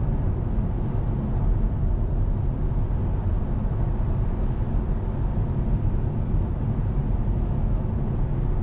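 Steady road noise from a Tesla Model 3 Performance electric car cruising on the highway: an even low rumble of tyres and wind, with no engine sound.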